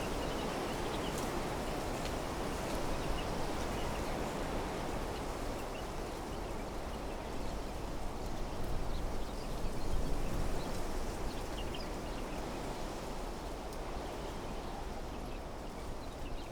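Steady wind rustling through trees and bushes, swelling and easing gently, with scattered brief bird chirps.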